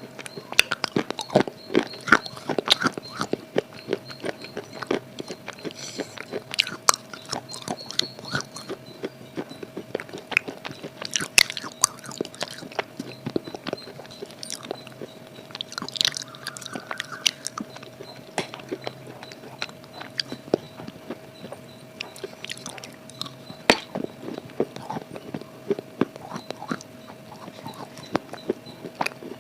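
A person biting and chewing something crunchy close to the microphone: a rapid, irregular run of sharp cracks and crunches.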